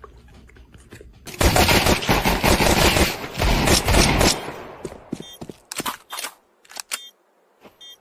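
A rapid string of loud bangs, like machine-gun fire, starting about a second and a half in and lasting about three seconds, then thinning out into a few scattered sharp clicks.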